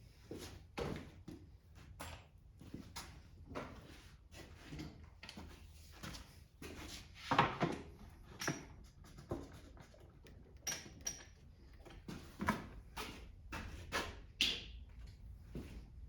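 Hand tools and metal parts of a Kohler small engine being handled during disassembly: irregular clicks, knocks and clinks, a few with a short metallic ring, the loudest about seven seconds in. A low steady hum runs underneath.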